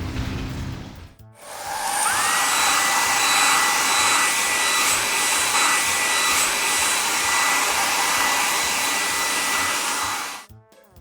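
Car-wash air dryer sound effect: a steady blowing hiss with a whine that rises and then holds. It starts about a second in and cuts off suddenly near the end.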